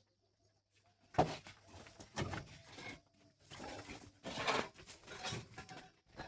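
Calf suckling milk, with irregular noisy slurps and bumps starting about a second in.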